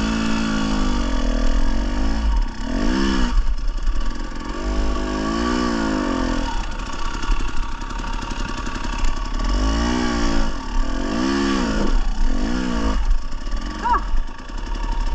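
Dirt bike engine revving up and down in several separate throttle bursts, over a steady low rumble.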